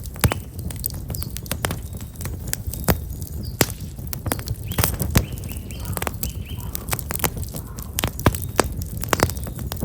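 Black locust firewood burning in an open fire, crackling with many irregular sharp pops over a low steady rumble. Small birds chirp briefly now and then in the background.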